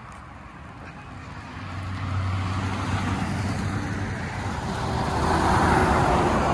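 Road vehicle approaching and passing close by: a low engine drone, then tyre and road noise growing steadily louder to a peak about five to six seconds in.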